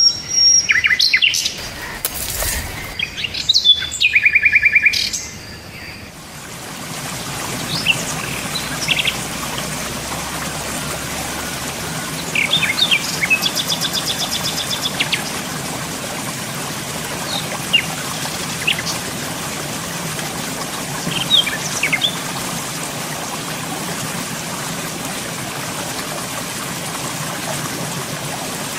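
Birds chirping and calling, loudest and busiest in the first few seconds. From about six seconds in a steady rushing hiss sets in, with scattered short chirps over it.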